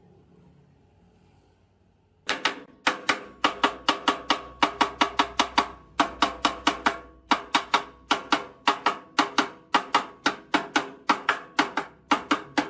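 A fast, even run of sharp strikes with a short ringing tone after each, about three to four a second, starting about two seconds in after a near-quiet stretch.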